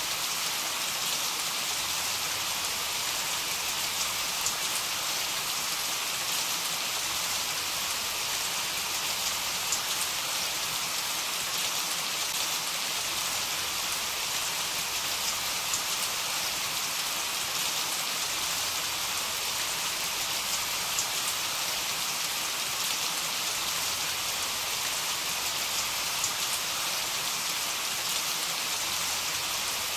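Steady heavy rain falling on a surface, an even hiss with scattered sharp drop ticks; no thunder is heard.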